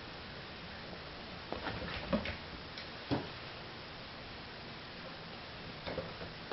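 A few light clicks and taps over a steady hiss, in small clusters: six-week-old puppies moving about, their paws and claws tapping.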